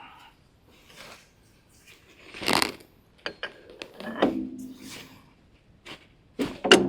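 Scattered clicks, knocks and scrapes of tools and metal parts being handled, with a louder rasping scrape about two and a half seconds in.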